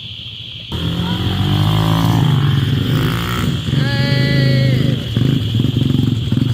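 A small engine starts up abruptly less than a second in and keeps running steadily, over a steady high-pitched drone. Around four seconds in there is a short pitched call that falls away at its end.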